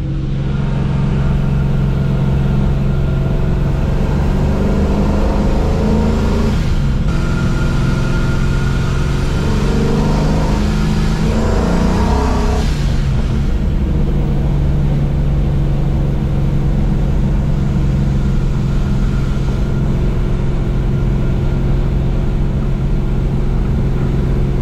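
Classic car with a custom-built exhaust driving on the road: the engine note climbs twice under acceleration, about four and ten seconds in, then settles into steady cruising.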